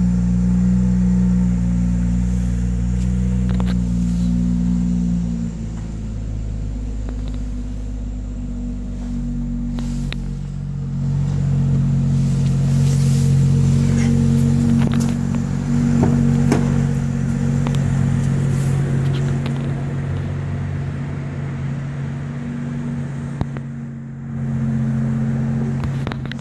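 2011 BMW X3 M Sport's engine idling with a steady low hum, its tone changing about five seconds in, with a few light knocks now and then.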